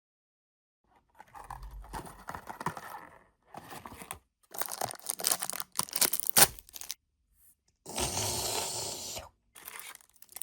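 Packaging being torn open and crinkled in several rough bursts, starting about a second in.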